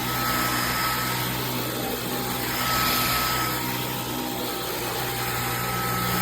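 Dyson V15 Detect cordless stick vacuum running over a rug, a steady motor hum with a high whine and rushing air that swells and eases a few times as the head is pushed back and forth.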